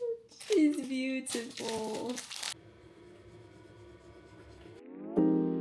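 A woman's voice singing or vocalising playfully for about two seconds, with a brief burst of hissing noise under it, then a quiet stretch; piano music begins near the end.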